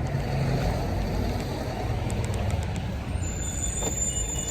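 Steady low rumble of road traffic outdoors, with a couple of faint clicks near the end.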